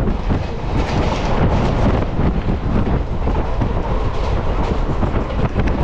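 Passenger train running along the track, heard from an open carriage doorway: a steady rumble from the wheels and rails, with frequent rattling clicks and wind on the microphone.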